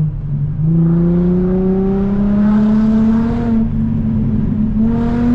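Infiniti G35's V6 accelerating through a muffler-and-resonator-deleted exhaust: the note climbs steadily in pitch for about three seconds, falls away, then starts climbing again near the end.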